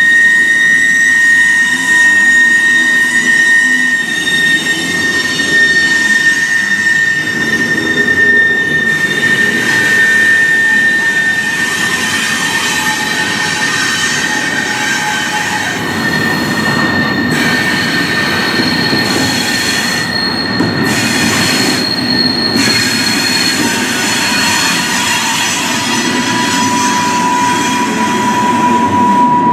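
Double-stack intermodal freight cars rolling past, steel wheels rumbling and clattering on the rails with steady high-pitched wheel squeal. The squeal changes pitch as different cars pass: one tone fades about halfway, a higher one comes in, and a lower one returns near the end.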